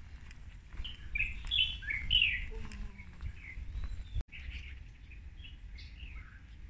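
Small birds chirping and calling in short, repeated notes, busiest in the first few seconds, over a low steady outdoor rumble; the sound drops out briefly about four seconds in.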